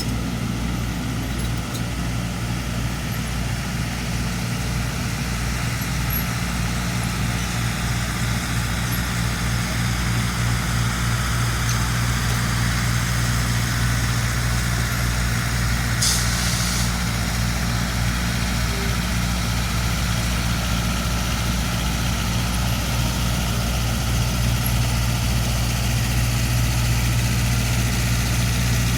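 Diesel locomotive engine idling with a steady low hum that grows slightly louder over time. A short hiss breaks in about halfway through.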